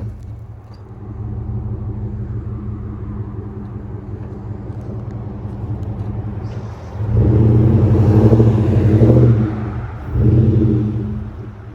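Dodge Durango's engine running steadily, rising twice with throttle, about seven and ten seconds in.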